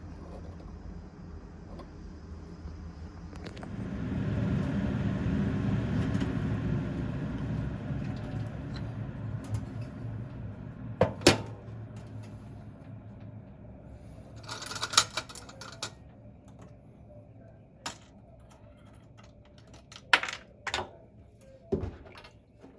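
Metal faucet parts clicking and clinking as a single-lever kitchen mixer tap is taken apart, with the loudest click about halfway through. Before the clicks, a rushing noise swells and fades over several seconds.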